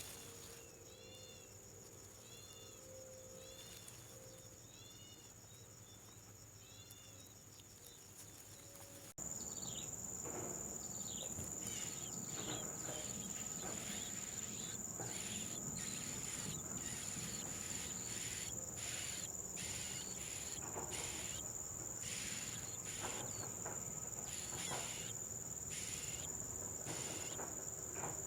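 Insects, cricket-like, trilling steadily at a high pitch with pulsing rasping calls over it, starting abruptly about nine seconds in. Before that, a quieter stretch holds short arched chirps repeating about once a second.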